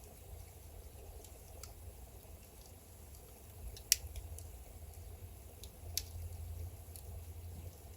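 Wood fire burning in a fireplace: a low steady rumble of the flames with scattered small crackles, and two loud sharp pops about four and six seconds in.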